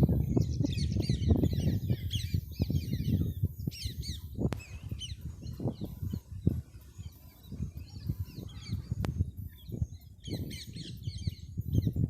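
Parrots chattering in bursts of rapid high chirps, with low rustling and thumps from movement throughout.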